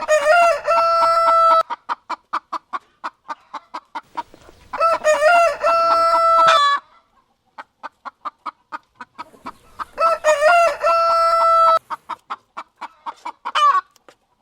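Rooster crowing three times, about five seconds apart. Between the crows, chickens cluck in quick, steady, short notes.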